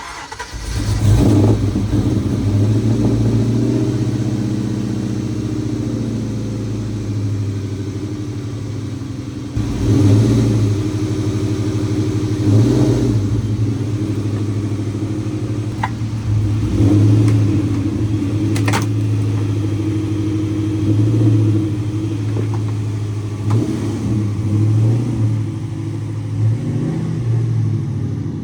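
Ford Mustang Cobra's 4.6 V8 starting up, then idling steadily. It is blipped several times, with short revs about 10, 13, 17 and 21 seconds in.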